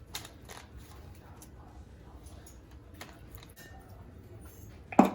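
Light clicks and taps of kitchen handling while croissants are glazed with egg, with one sharp knock about five seconds in, the loudest sound.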